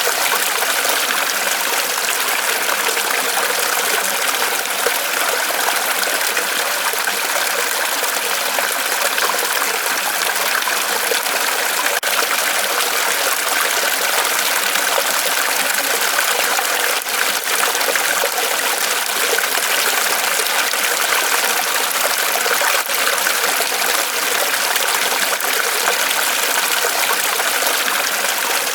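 Small waterfall of water trickling and splashing down from a tree trunk, a steady even rush with no breaks.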